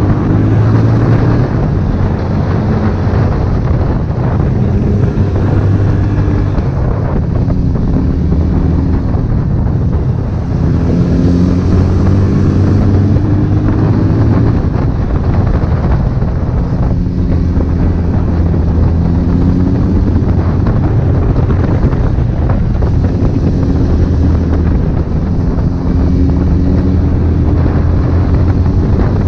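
Honda CB1000R inline-four engine running under way, its pitch rising and dropping several times as the bike accelerates and shifts, with wind rushing over the microphone.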